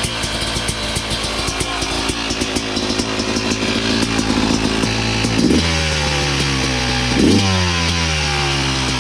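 Yamaha YZ250 two-stroke single-cylinder dirt bike engine running unevenly at idle, then revved twice, about five and a half and seven seconds in, the pitch falling slowly back after each blip.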